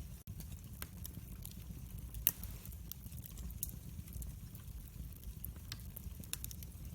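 Wood fire crackling: scattered sharp pops and snaps over a steady low rumble, with one louder pop a little over two seconds in. The sound cuts out for an instant just after the start.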